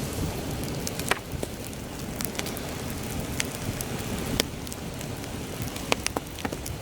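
Campfire crackling with scattered sharp pops, over a steady low rumble of heavy wind.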